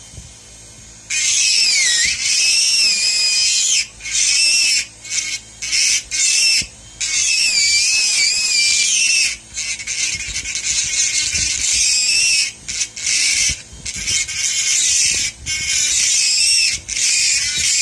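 High-speed dental lab handpiece grinding the acrylic of a denture, a shrill whine that wavers in pitch as the bit bites. It starts about a second in and stops and restarts many times in short spells.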